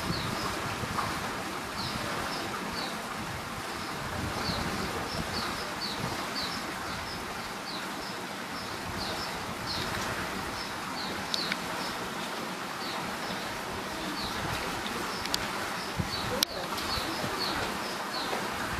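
Birds calling with short, high, falling chirps, repeated in quick runs, over a steady open-air hiss. One sharp click comes near the end.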